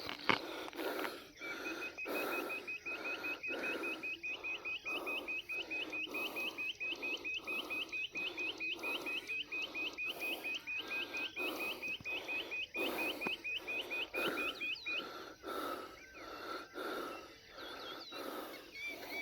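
Footsteps of a man walking along a road at a steady pace, about two steps a second. A bird calls a fast, even run of short high chirps from shortly after the start until about three-quarters of the way through.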